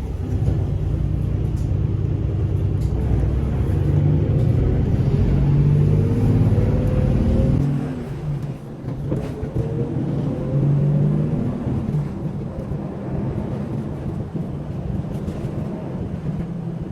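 Road vehicle running, with an engine's low rumble and its pitch rising as it speeds up. About eight seconds in, the deep rumble drops off, leaving a lighter running sound.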